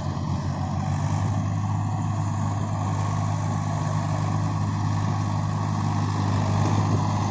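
Swaraj tractor's diesel engine running steadily with a deep, even hum, a little louder near the end.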